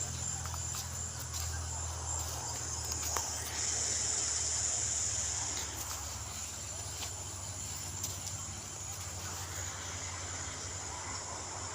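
Insects trilling steadily in a high pitch, growing louder for about two seconds around four seconds in, over a low steady hum.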